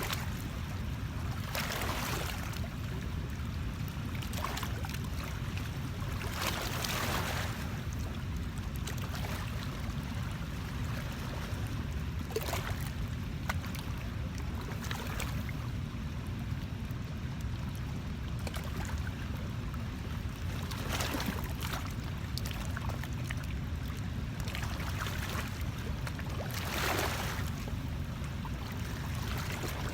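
Riverside water and wind ambience: a steady low rumble with a brief noisy swell every few seconds.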